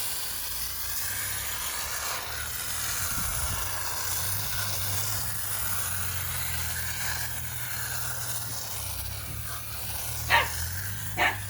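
Aerosol can of foaming coil cleaner spraying in a long, steady hiss onto air-conditioner coils, over a low steady hum. Two short, sharp sounds come near the end.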